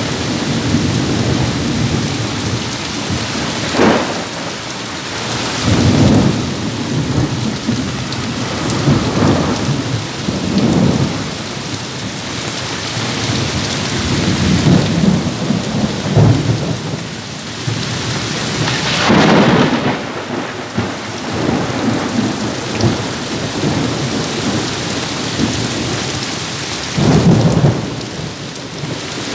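Heavy rain pouring steadily, with strong wind gusting in louder low rumbling surges every few seconds: a rural thunderstorm.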